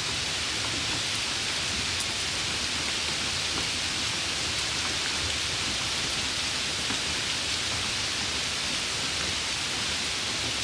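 Steady summer rain falling, a continuous even hiss with no changes in level.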